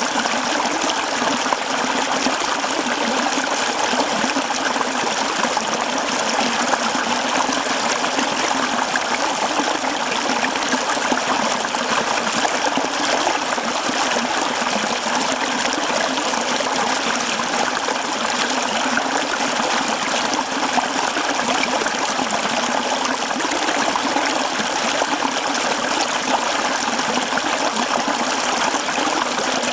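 Mountain stream running steadily over rocks, a continuous babble and trickle of water.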